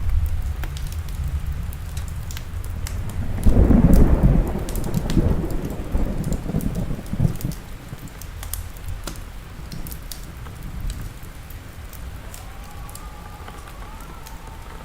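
Thunder rumbling through steady rain, swelling loudest about three and a half seconds in and then rolling off, with scattered sharp crackles from a fireplace fire.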